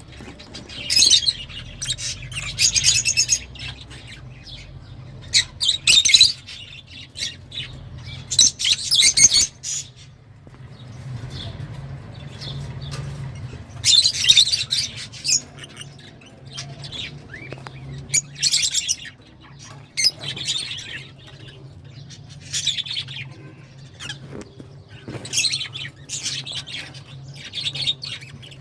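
Lovebirds chattering in shrill, high-pitched bouts of about a second each, with short pauses between, over a steady low hum.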